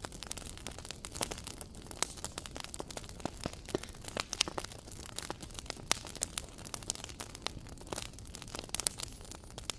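Wood fire in a fireplace crackling, with frequent irregular sharp pops and snaps over a low steady rumble of the flames.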